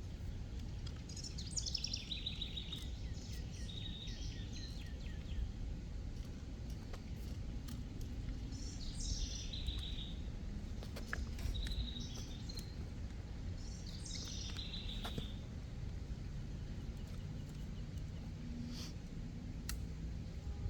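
A songbird sings the same short phrase three times, about six seconds apart. Each phrase is a quick run of high notes falling in pitch into a buzzy series, heard over a steady low rumble.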